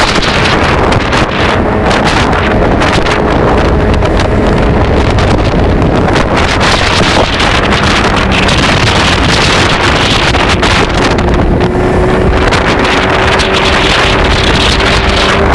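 Heavy wind buffeting on the microphone over a motorcycle engine running at speed; the engine note rises slowly in the second half.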